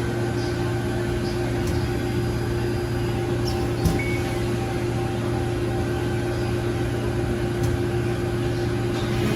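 Amada RG-35S CNC press brake running, a steady hum from its hydraulic pump and motor, with one short knock about four seconds in.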